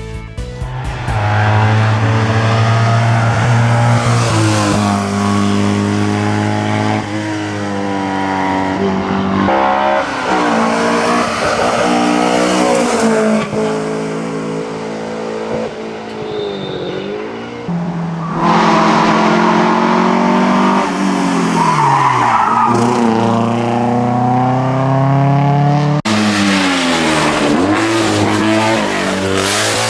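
Race car engines revving hard, their pitch climbing and then dropping at each gear change, with tyres squealing. The sound changes abruptly about three-quarters of the way through.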